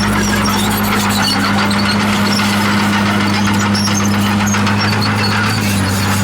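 Komatsu D51PX crawler bulldozer's diesel engine running at a steady pitch, with short high squeaks from its steel tracks.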